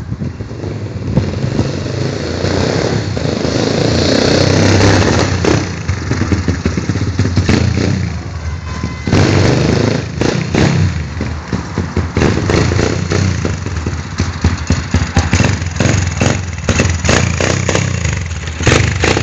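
150cc pit bike single-cylinder four-stroke engine being ridden, revs rising and falling as the rider accelerates and backs off. It runs with the choke closed, which the owner says leaves it a bit sluggish.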